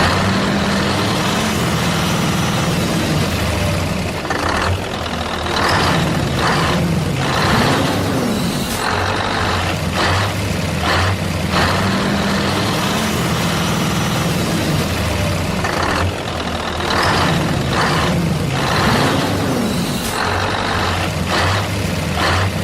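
An engine running steadily, with short hissing bursts scattered through it. The same sequence of sounds plays twice.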